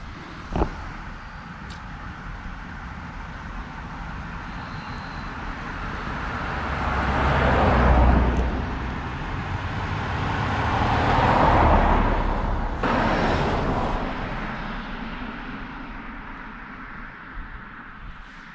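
Road traffic: two vehicles pass one after the other, each a tyre-and-engine noise that builds and fades over several seconds, with a short knock just after the start.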